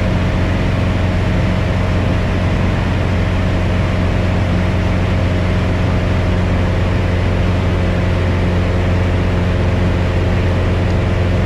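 Steady drone of a Piper Cherokee 180's four-cylinder Lycoming O-360 engine and propeller heard from inside the cockpit at climb power, a constant low hum that does not change. The engine is new and in its break-in period.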